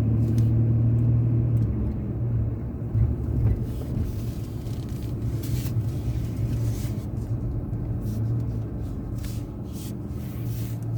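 Car moving slowly into a parking spot, its engine running with a steady low hum that eases off after about two seconds. Scattered small clicks and knocks come through the middle.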